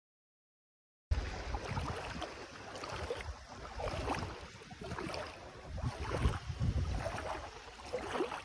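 Rough, rushing water-and-wind noise with a heavy low rumble, swelling and falling irregularly, as from a boat on the sea or surf with wind on the microphone; it starts abruptly about a second in and cuts off sharply at the end.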